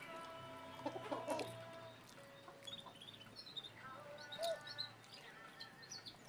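Chickens clucking on and off, with some higher chirping calls among them.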